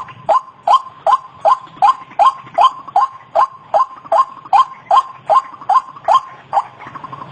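White-breasted waterhen (ruak-ruak) calling, a fast run of short, harsh notes, each falling in pitch, at about three a second. The run breaks off near the end.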